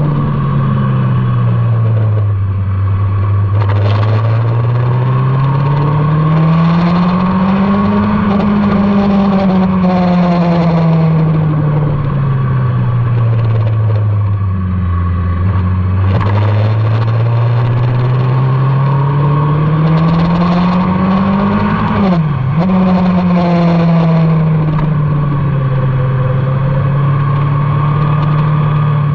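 Motorcycle engine heard onboard during a track lap, its revs falling and rising in long slow swells as the bike brakes and accelerates through corners. About 22 seconds in, the note drops sharply for an instant and comes straight back, as at a quick gear change.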